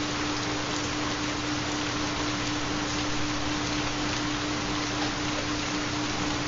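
Steady recorded rain, an even hiss of falling drops, with a constant low tone running under it: the carrier tone of a theta binaural beat.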